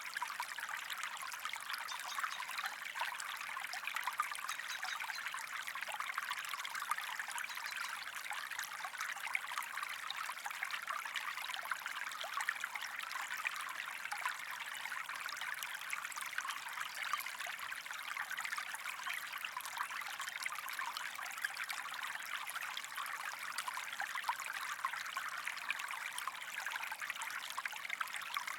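A small stream running steadily over stones, with a constant trickling and fine splashing.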